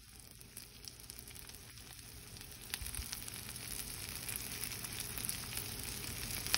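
Shredded Brussels sprouts sizzling in melted butter in a stainless steel skillet, a steady crackling fry that grows louder as the pan heats.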